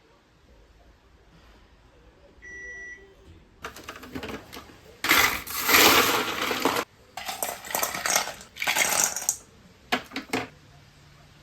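Household clatter, like dishes and cutlery being handled, in a run of loud irregular bursts for several seconds, preceded by a brief steady tone.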